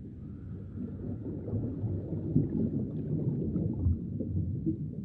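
Low, rumbling underwater-style ambience that swells a little in the middle, with a faint thin tone above it.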